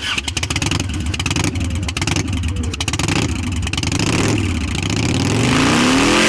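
Motorcycle engine revved hard, its exhaust popping and crackling rapidly, then rising to a steady high rev about five seconds in. It is being revved to shoot flames from the exhaust pipes.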